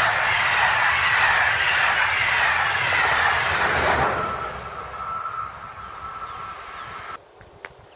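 A train passing at speed on an electrified main line: a loud rush with a whine that falls in pitch as it goes by. It fades after about four seconds and cuts off abruptly near the end.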